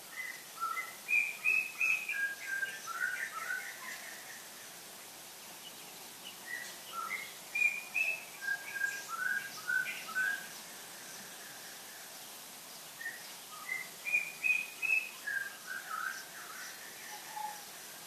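A songbird singing three phrases of quick, clear notes with pauses of a few seconds between them, each phrase stepping down in pitch from start to end. A faint steady background hiss lies beneath.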